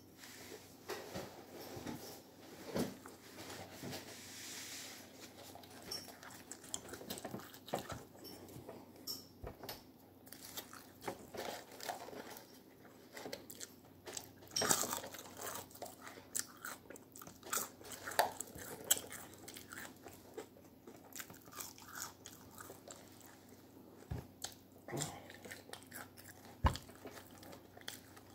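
A person chewing and biting food close to the microphone while eating fries, with irregular crunchy clicks.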